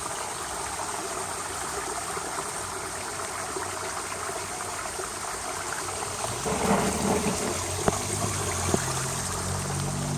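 Steady trickle and splash of running water in a backyard pond. From about six and a half seconds in, a low rumble joins it, with two sharp knocks.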